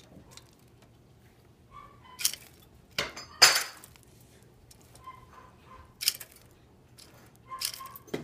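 Pet bird eating from its dish: scattered sharp clicks and clinks of beak and food against the bowl, the loudest about three and a half seconds in.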